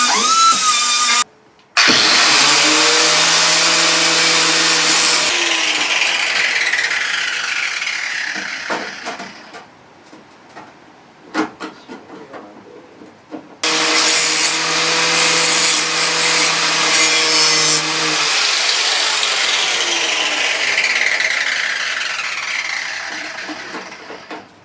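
A power grinder working sheet metal in two long runs. Each run holds steady for a few seconds, then winds down with a falling whine as the tool is let off.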